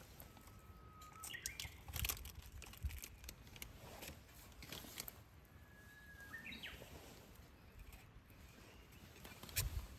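A songbird calling twice, each time a held whistled note that breaks into a quick higher flourish, over faint outdoor hush. Scattered light knocks and rustles of handling gear, the loudest about two seconds in and just before the end.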